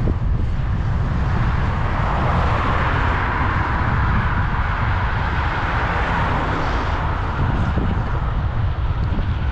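Wind rumbling on the microphone of a bicycle-mounted action camera while riding in road traffic. A vehicle's tyre and engine noise swells over a couple of seconds and fades again after several seconds as it passes.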